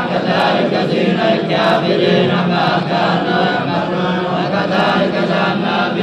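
Quran recitation chanted by men's voices in a drawn-out melody, several voices sounding together without a break.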